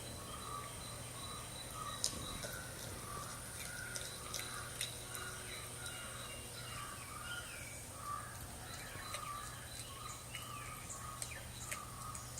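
Faint audio of a cat video playing, cats eating fish: short animal calls repeating about twice a second, with scattered sharp clicks over a steady low hum.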